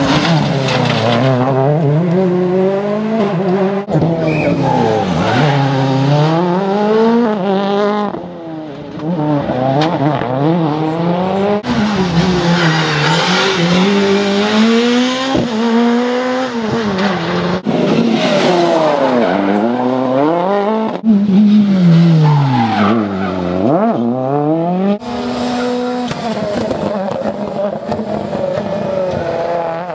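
World Rally Cars' turbocharged four-cylinder engines revving hard, one car after another: the pitch climbs and drops over and over as they shift gears, brake and accelerate through the stage, with an abrupt change to another car every few seconds.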